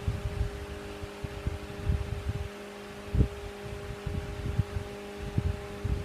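Steady hum of shop machinery with several soft, irregular low thumps from handling the workpiece and tools, the loudest about three seconds in.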